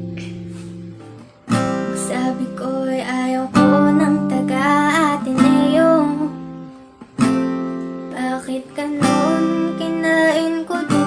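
Acoustic guitar strumming chords, each struck and left to ring, with a voice singing a melody over them.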